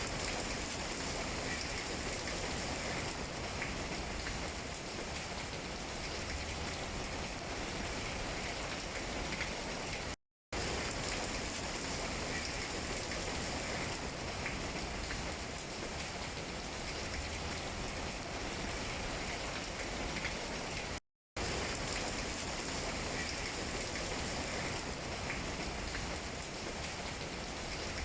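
Steady rain falling on tree leaves, an even patter. It cuts out completely for a split second twice, about ten and twenty-one seconds in.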